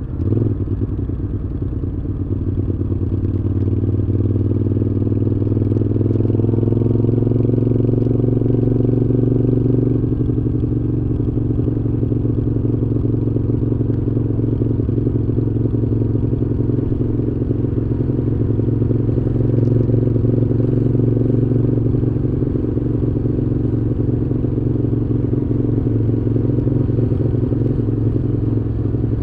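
Moto Guzzi V7's air-cooled transverse V-twin running steadily through a Mistral exhaust while riding, with a brief dip in level right at the start before it settles into an even cruise.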